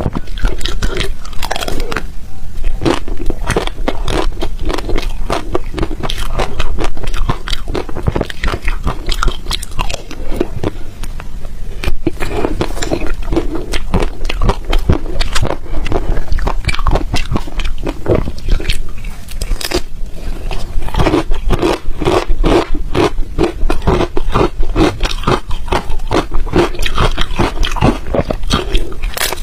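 A person biting and chewing crunchy ice close to the microphone: a dense run of sharp crunches and crackles that keeps going without a break.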